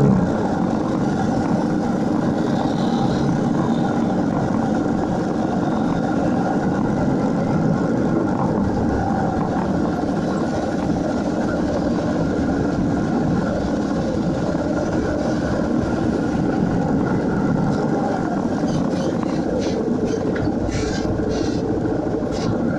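Motorcycle engine running steadily on the move, a constant drone with no changes in pitch.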